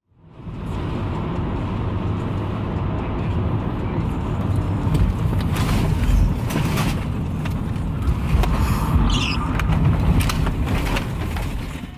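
Motor vehicle driving: steady engine and road rumble, with a few sharp knocks and a short rising squeak about two-thirds of the way in.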